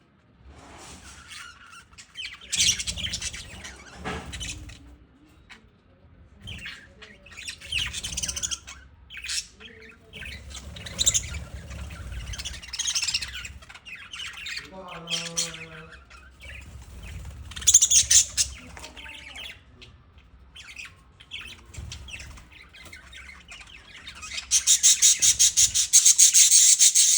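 Lovebirds chattering and squawking in short, high-pitched bursts, with a brief lower call about halfway through. Near the end a loud, rapid rasping chatter starts.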